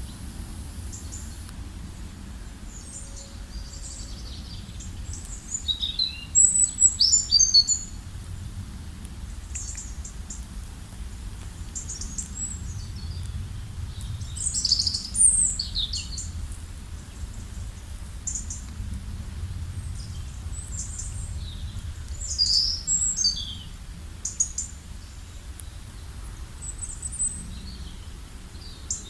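Several small birds chirping and trilling in scattered high bursts, busiest about a quarter of the way in and again near the middle, over a steady low rumble.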